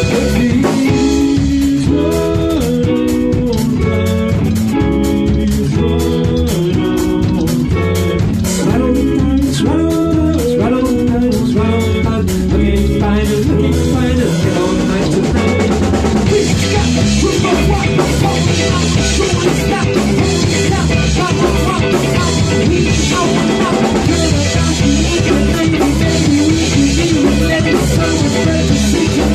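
A rock band rehearsing live: drum kit with guitar and bass playing a repeated riff of short stepping notes, the playing turning fuller with heavier cymbals about halfway through.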